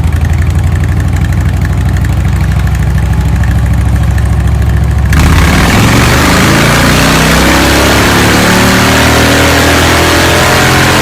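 Harley-Davidson V-twin motorcycle exhaust idling with a steady, pulsing low note. About halfway through the sound changes suddenly to a louder, noisier engine note that rises slowly in pitch as the bike accelerates.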